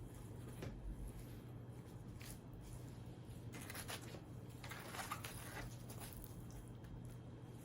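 Soft, scattered rustling, crackling and squishy handling noises, typical of pizza being handled and eaten, over a steady low hum; the loudest come about four and five seconds in.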